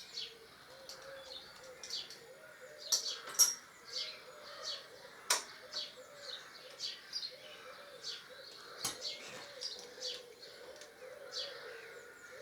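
Small birds chirping in short, repeated high notes, with one sharp click about five seconds in.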